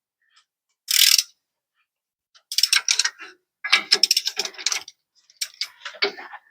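Hand socket ratchet clicking in quick runs as a loosened U-bolt nut on the rear axle is backed off, with a short hiss about a second in.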